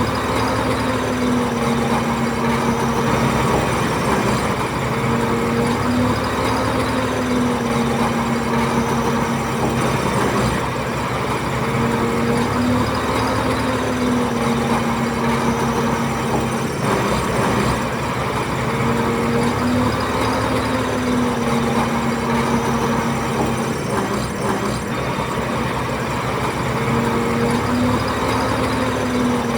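Heavy diesel engine of a crawler bulldozer running steadily, its note dipping and recovering about every six seconds.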